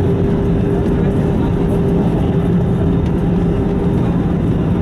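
Airbus A320 cabin noise: a loud, steady drone of engines and airflow with two steady low hums that hold their pitch.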